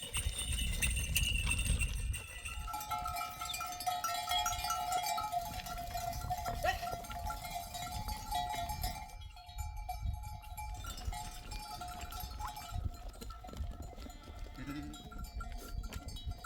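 Bells on a grazing flock of sheep clinking and ringing irregularly as the animals move, with a break of about two seconds in the middle.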